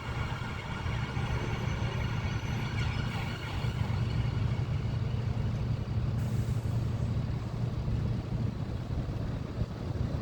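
Diesel bus engine running at idle, a steady low hum.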